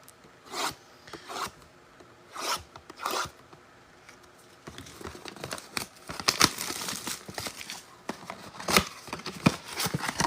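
Five short rasping swipes of cardboard packaging, then from about four and a half seconds in a steady crinkling and tearing with sharp crackles: football trading card packs from an Optic blaster box being torn open.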